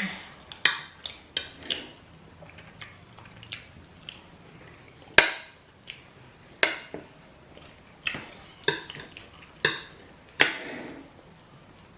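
Spoons clinking and scraping against plates during a meal of rice and stew, a string of irregular sharp clicks, the loudest about halfway through.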